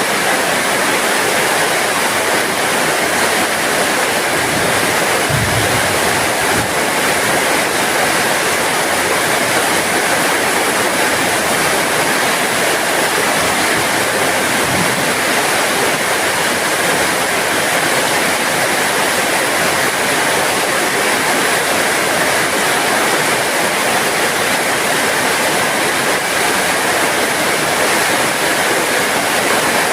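Steady heavy rain falling, an even dense hiss of drops with a few faint low thuds.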